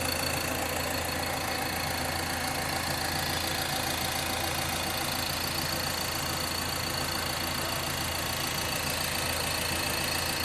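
2015 Ford Transit Custom's four-cylinder diesel engine idling steadily and smoothly, heard from the open engine bay.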